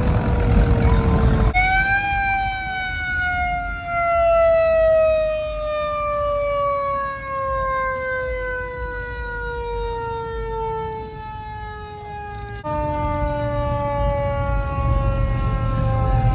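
A siren sounding one long, slowly falling wail, its pitch sliding steadily down for about ten seconds, with a low rumble of engines and crowd under it at the start and again near the end.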